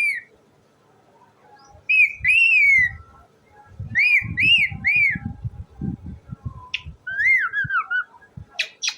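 Pet parrot squawking in short, arched, high calls: a long falling squawk about two seconds in, three quick ones around the middle, and a falling string of calls near the end. Low bumping noises sound underneath in the middle.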